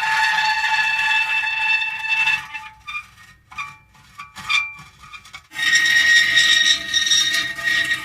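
Metal creaking: a long, steady-pitched squeal, a few short quieter squeaks about halfway through, then another long squeal from about two-thirds of the way in.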